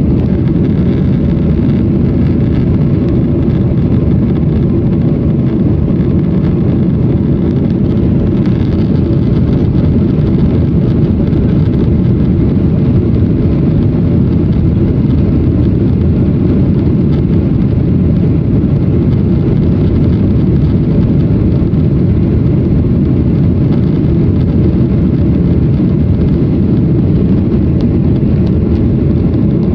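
Airliner cabin noise: a steady, loud low drone of jet engines and airflow heard from a passenger seat.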